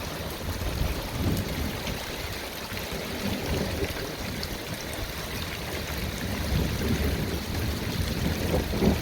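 Steady heavy rain pouring down, with a low, continuous rumble of thunder underneath.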